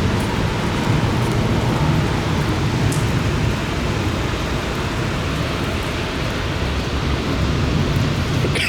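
Heavy thunderstorm rain falling steadily, with a continuous low rumble underneath.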